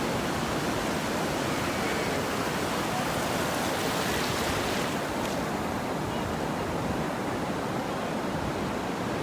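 Ocean surf washing onto a beach as a steady hiss, with one wave rising a little louder about four seconds in.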